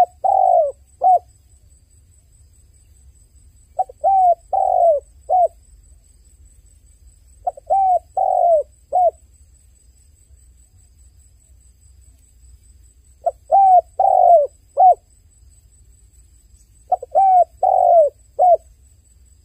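A dove cooing in repeated phrases of three or four quick, arched coos. The phrases come every few seconds, five in all, with a longer pause near the middle.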